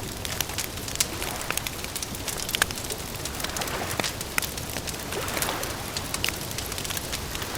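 Campfire crackling with frequent sharp, irregular pops and snaps over a steady hiss.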